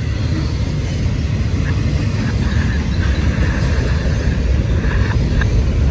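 Freight train rolling past: a steady, loud low rumble of wheels on rail, with a faint high squeal coming and going in the middle.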